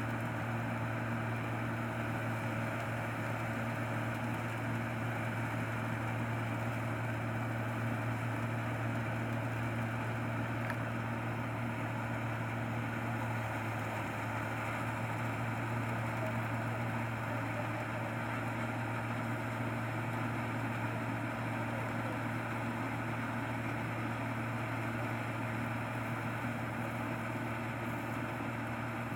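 Combine harvester's engine running at a steady speed, a constant low hum with no change in pitch or load.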